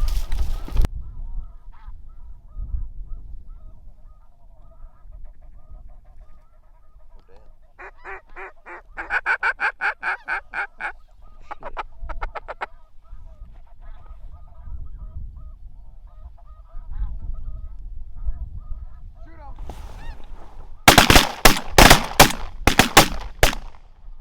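A flock of snow geese calling steadily, with a loud burst of fast, repeated calls about eight seconds in. Near the end comes a rapid volley of about seven shotgun shots as ducks are shot over the decoys.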